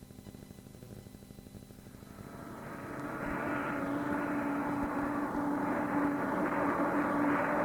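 Recorded sound effect of a steady engine drone with a held hum, fading in about two seconds in and growing steadily louder.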